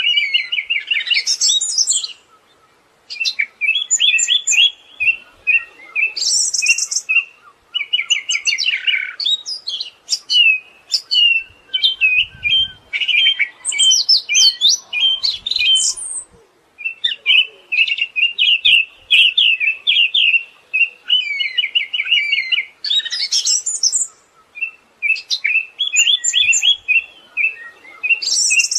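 Siberian thrush singing a long, varied song of rapid trilled phrases and sharp high notes, phrase after phrase with brief pauses between them.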